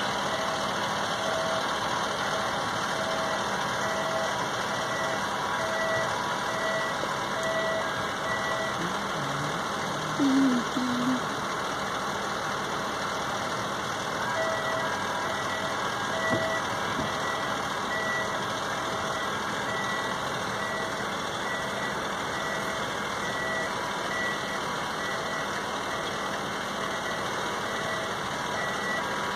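Steady engine noise with an electronic warning beeper sounding over and over, a beep a little under every second. The beeper pauses for a few seconds, and during the pause a short, louder sound of a different pitch comes twice.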